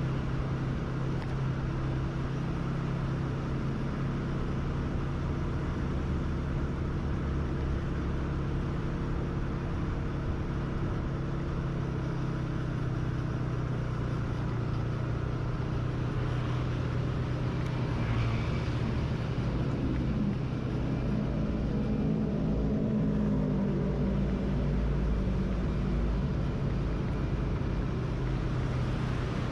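Engine of the riding vehicle running steadily with a constant low hum, over wind and road noise. Another vehicle passes with a brief rising and falling pitch about two-thirds of the way through.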